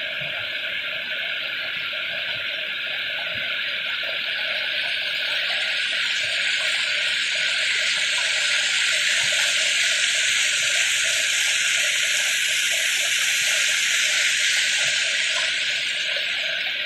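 Rushing stream water running steadily, swelling louder about halfway through and easing off near the end.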